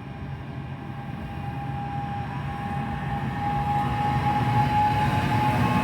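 An NJ Transit train approaching, its low rumble and a thin steady whine growing steadily louder, the whine rising slightly in pitch.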